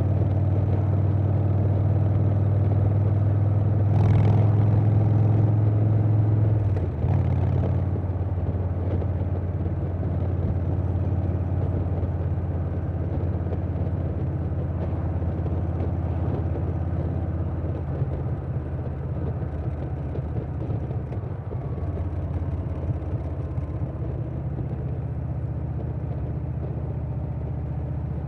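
2020 Harley-Davidson Softail Standard's Milwaukee-Eight V-twin running through a Vance & Hines Big Radius 2-2 exhaust at steady cruising throttle, with wind noise. The engine opens up louder about four seconds in, dips briefly about seven seconds in, then settles back to a steady cruise.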